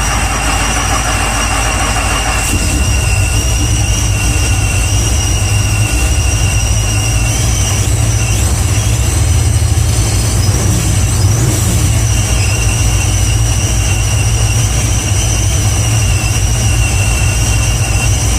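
Twin-supercharged 1968 Camaro engine idling steadily on its first start-up, a loud low rumble with a steady high whine above it.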